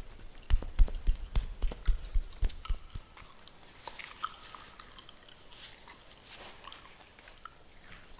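Close-up fingernails scratching through a beard, a dense crackling scratch with soft thumps from handling. A run of loud scratches comes in the first three seconds, then the scratching goes on more softly.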